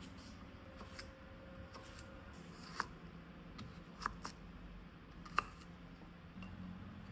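A few light, sharp clicks and taps of kitchen utensils during stir-fry preparation, spaced irregularly, over a faint steady hum.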